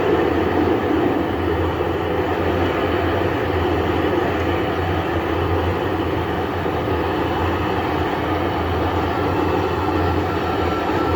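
Steady, heavy rumble of Super Heavy Booster 9's Raptor engines during a static-fire test.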